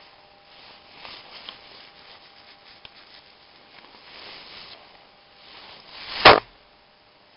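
Hand work on a cylinder head: soft scraping and rubbing sounds in several swells, then one sharp, loud knock about six seconds in.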